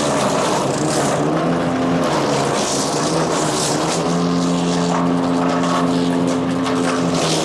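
Power King wood chipper shredder running on its Kohler CH440 single-cylinder engine, with a hiss of wood being chipped over the engine note. The engine pitch wavers under load for the first few seconds, then holds steady from about halfway.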